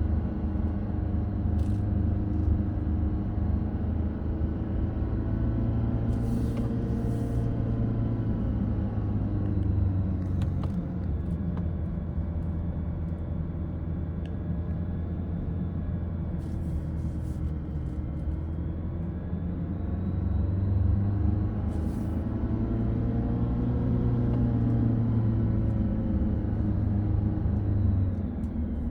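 A car's engine and road noise heard from inside the cabin, the engine note sinking and rising slowly, with a few brief clicks.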